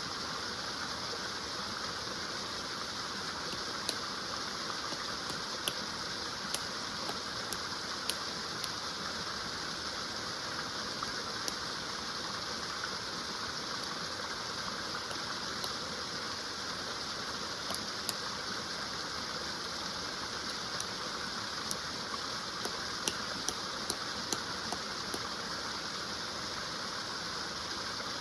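Woodland stream running steadily: a constant rushing of water with scattered small, sharp splashes and ticks.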